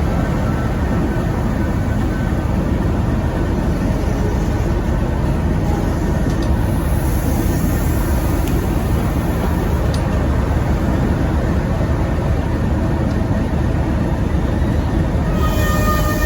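Heritage diesel locomotive running, a loud steady low rumble; a few high, steady tones come in near the end.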